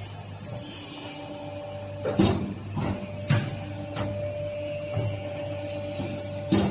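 CNC hydraulic pipe bending machine running: a steady hum from its hydraulic unit, broken by a series of sharp clunks as the machine moves through its bending cycle. The loudest clunks come about two seconds in and near the end.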